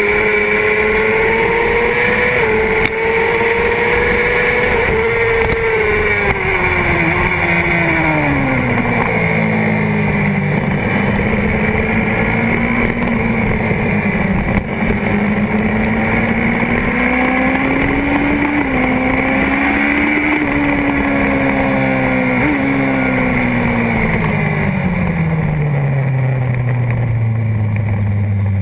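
Honda CBR600RR's inline-four engine at race pace, heard from a tank-mounted camera. Its pitch falls in steps through downshifts about five to nine seconds in, climbs slowly for the next ten seconds, then falls again to low revs near the end, over steady rushing noise.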